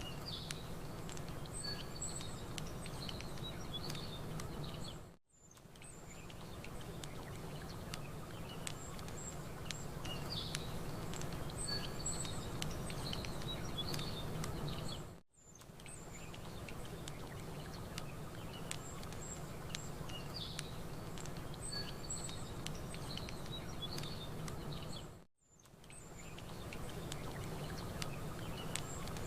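Campfire crackling over a steady low rush, with small birds chirping. The sound dips briefly to near silence three times, about ten seconds apart, and fades back in: the same short ambience loop repeating.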